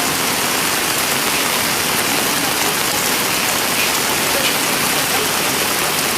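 Heavy rain pouring down steadily during a thunderstorm, an even hiss of downpour.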